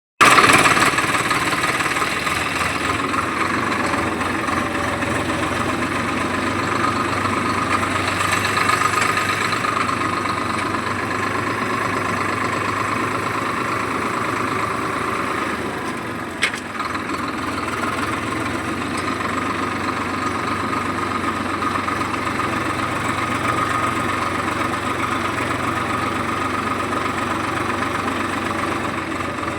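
Diesel engine of a tractor-type machine running steadily at idle, with one sharp click a little past the middle.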